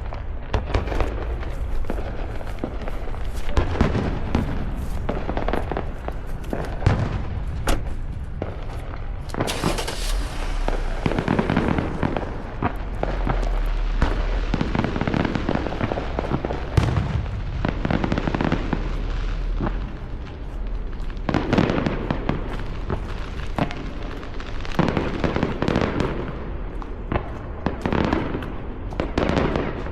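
Aerial fireworks going off in a dense, continuous barrage of booming shell bursts and crackle, with no pauses between bangs. A hissing crackle stands out about ten seconds in.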